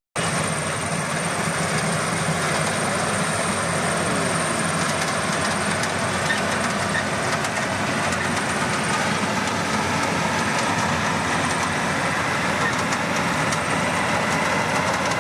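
Bimo combine harvester running while harvesting rice: a dense, steady mechanical noise, with a faint high whine that fades out about halfway through.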